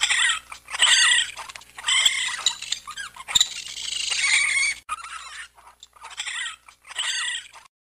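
A small animal's high squeaky, chittering calls, about one a second, with a longer drawn-out call near the middle.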